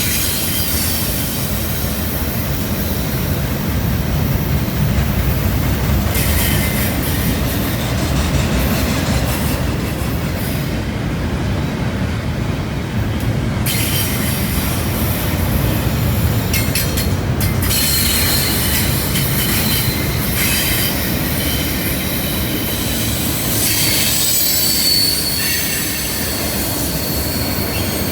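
Freight train cars rolling past on a curve: a steady rumble of wheels on rail, with high-pitched wheel squeal from the curve coming and going.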